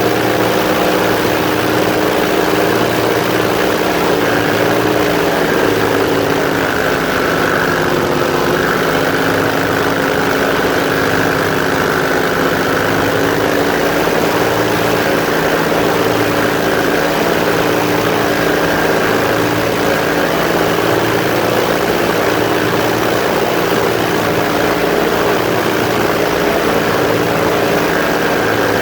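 Airboat's engine and large air propeller running steadily at cruise, with a steady rush of air noise. The engine note eases slightly a few seconds in, then picks back up.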